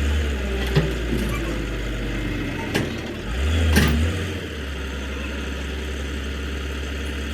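An engine running steadily with a low hum that swells twice, with a few sharp knocks.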